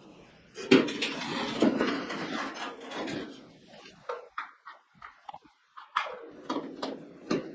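Handling noise: a rustling clatter with knocks for a couple of seconds, then a string of separate sharp clicks and knocks.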